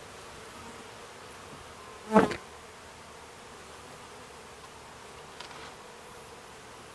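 Honeybees buzzing steadily around the hive during a colony transfer, with one brief loud knock about two seconds in.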